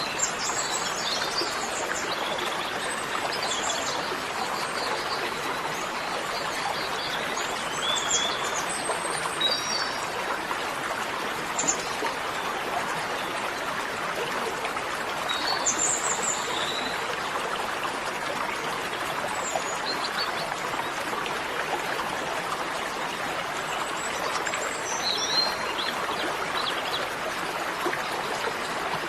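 Steady rush of running water, like a stream, with birds chirping now and then.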